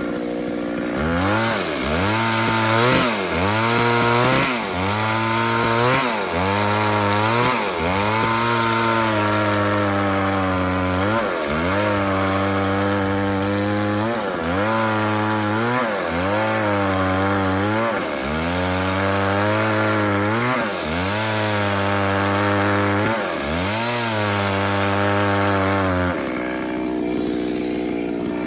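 Two-stroke chainsaw cutting wood at full throttle. The engine pitch drops each time the chain bites and climbs back as it clears, again and again, roughly every one and a half seconds. Near the end it falls back to a lower, steady run.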